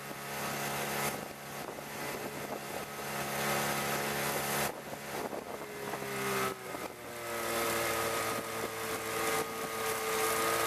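Boat's outboard motor running while the boat travels, steady, with its pitch shifting about two-thirds of the way through and then holding a little higher.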